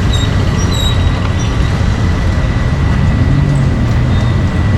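Steady din of a busy street market, dominated by a low rumble of passing traffic. A faint steady high whine runs through it, and a few short high chirps come in the first second or so.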